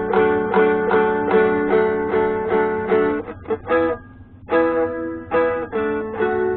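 Seagull Merlin four-string fretted dulcimer strummed in a steady rhythm, about two to three chord strokes a second. The strumming breaks off a little after three seconds in, with a few quick strokes, then picks up again and rings on near the end.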